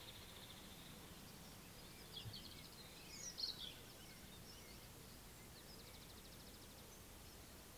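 Faint birdsong over quiet background noise: a rapid high trill at the start and again about six seconds in, with a few short chirps in between, the loudest about three and a half seconds in.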